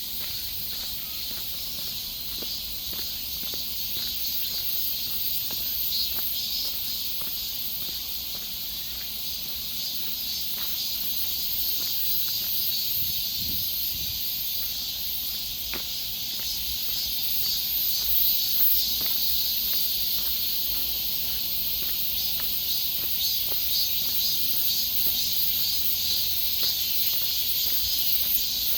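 Steady high-pitched chorus of insects in a forest, a continuous shrill buzz in several bands, with scattered faint clicks and ticks.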